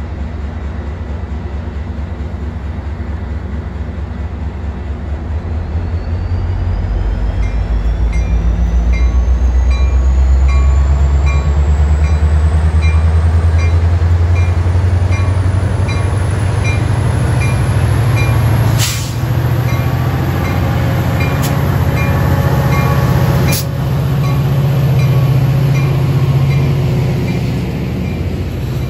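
Metra MPI MP36PH-3S diesel-electric locomotive approaching and passing with its bilevel commuter coaches. A deep engine rumble builds over the first several seconds alongside a high whine that climbs in pitch, and a faint ringing tone repeats about twice a second. As the coaches roll by, three sharp clanks sound a couple of seconds apart.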